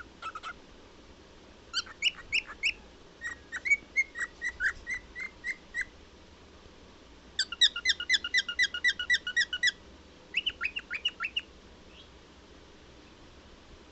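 Cockatiel singing: runs of short, quick whistled notes in several bursts with brief pauses between them, falling quiet near the end.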